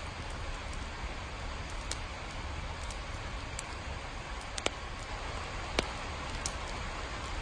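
Steady rain hissing, with scattered drops ticking sharply on a surface, two of them louder about four and a half and six seconds in, over a low rumble.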